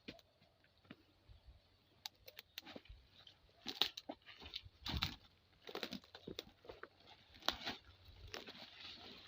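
Irregular crunching, snapping and rustling of dry oil palm fronds and undergrowth during hand harvesting, with several sharper cracks, the loudest about four, five and seven and a half seconds in.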